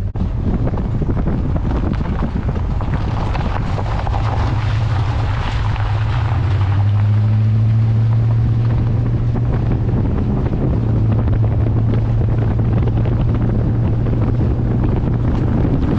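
Chevrolet Suburban driving, a steady engine and road drone with wind buffeting the microphone; the engine note rises and gets a little louder about six seconds in.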